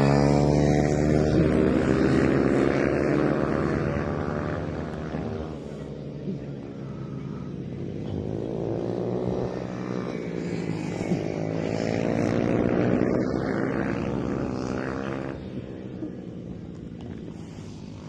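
Mini GP 110cc race motorcycles racing past at speed. The engine note is loud at first, with its pitch dropping as the bikes go by, and fades by about six seconds. It builds again with another pass around ten to thirteen seconds, then fades.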